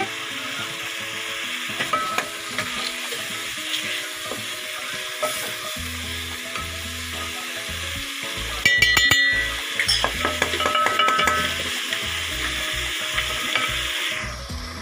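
Chicken frying in a yogurt masala in a metal pot, sizzling steadily while stirred with a wooden spoon. A burst of clattering clicks comes about eight and a half seconds in, with a few more a second later, and the sizzle cuts off shortly before the end.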